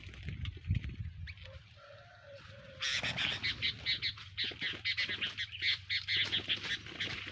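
Bird calls: a rapid run of short, high chirps that starts about three seconds in and keeps going, preceded by a softer, lower warbling call.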